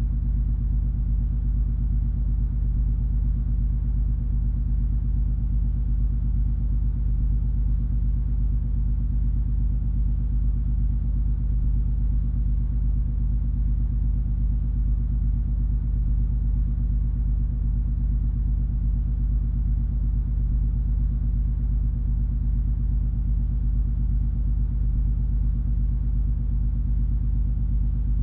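Steady low drone of the cruise ferry MS Color Magic under way: engine and hull rumble with several unchanging low hums and almost nothing high-pitched.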